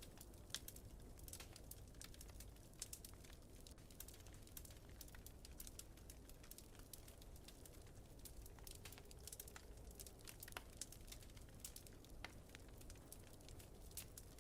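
Wood fire crackling in a fireplace: irregular sharp pops and snaps, a few louder ones, over a low steady rumble.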